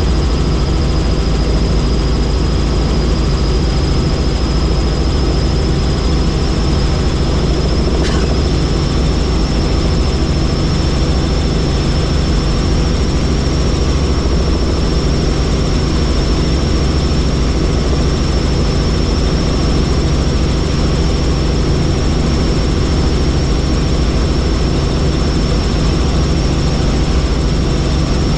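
Helicopter in flight: steady engine and rotor noise, a low rumble under a constant high whine.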